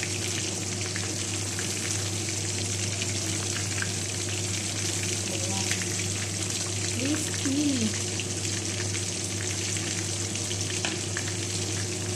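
Oatmeal-coated chicken pieces deep-frying in hot oil, a steady sizzle with many small crackles.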